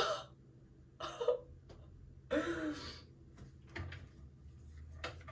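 A few short, quiet vocal sounds from a woman, like throat clearing, the first sharp one right at the start and others about one and two and a half seconds in, over a faint low steady hum.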